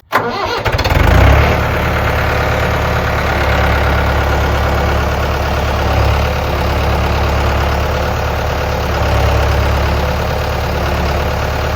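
An engine starts up, surges briefly about a second in, then idles steadily and loudly with a deep, even drone.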